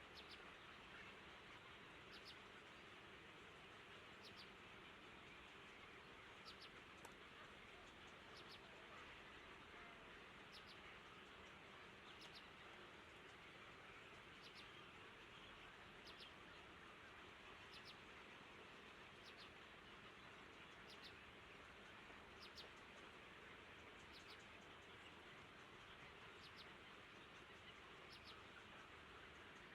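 Faint short high bird chirps repeating every second or two over a steady low hiss.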